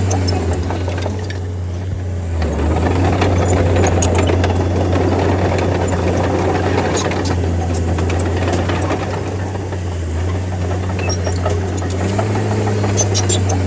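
D30 bulldozer's diesel engine running steadily with a deep hum, getting rougher and louder from about two seconds in to about ten seconds, with scattered sharp clicks and clatter.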